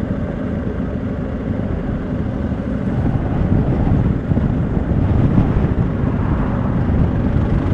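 Motorcycle with sidecar riding along, engine running steadily with wind and road noise; it gets a little louder about three seconds in.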